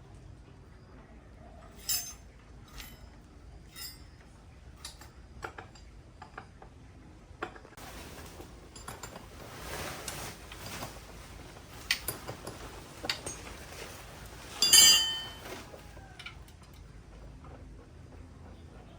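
Metal tools and parts clinking and clanking in a series of scattered knocks, with one loud ringing metal clank a little before the end.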